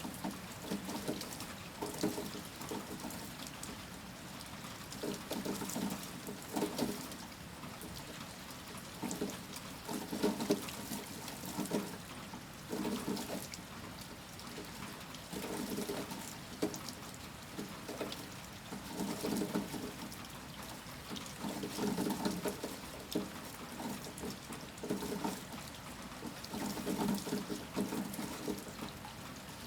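Heavy rain falling steadily, with water pouring and splashing in uneven gushes every second or two and scattered sharp drips.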